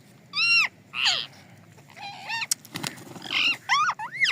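Ringneck parakeets calling: short screeching calls that rise and fall in pitch, one about half a second in, a harsher one a second in, then a quick run of three near the end.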